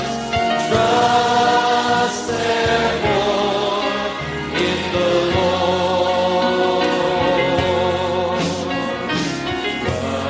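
A gospel choir sings a slow worship song in long held notes with vibrato, over steady backing music.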